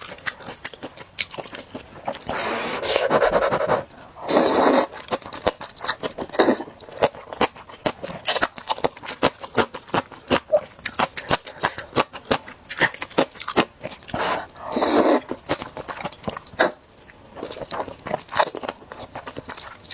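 Close-miked eating of sticky luosifen rice noodles: quick wet chewing and mouth clicks throughout, with longer slurps about two seconds in, about four and a half seconds in, and again near fifteen seconds.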